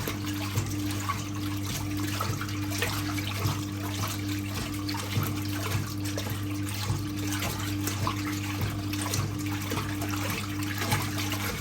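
1958 Hotpoint Empress washing machine running its wash cycle with the lid off: a steady electric motor hum with a tone that pulses about twice a second, over the sloshing and splashing of water and towels being churned by the agitator.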